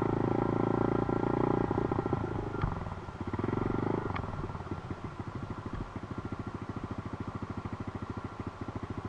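Dirt bike engine running loud for the first few seconds, with a brief rise about three and a half seconds in, then dropping to a steady, evenly pulsing idle.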